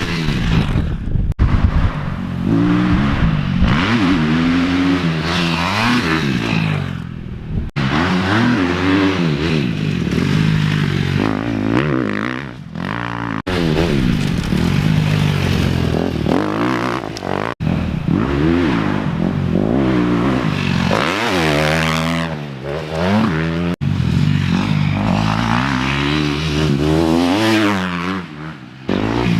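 2018 KTM 250 SX-F single-cylinder four-stroke motorcycle engine, fitted with an FMF 4.1 exhaust, revving up and falling back again and again. The sound breaks off abruptly several times.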